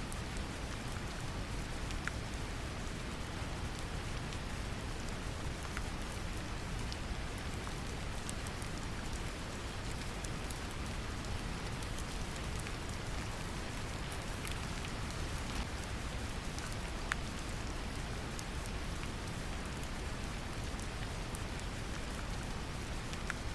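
Steady brown noise, a deep even hiss weighted to the low end, mixed with gentle rain whose scattered single drops tick through it.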